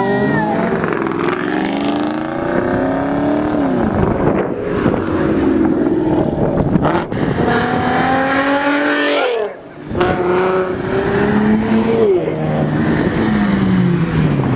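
Car engines revving hard as cars accelerate away, the engine pitch climbing and then dropping at gear changes. The engine briefly goes off throttle about nine and a half seconds in.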